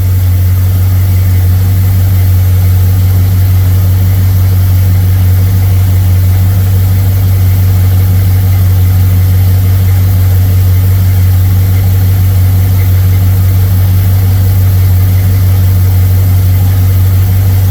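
Ford 302 V8 with a Motorcraft 2150 two-barrel carburetor idling steadily, running after a sticking float was freed, with no fuel yet pouring out of the top of the carburetor.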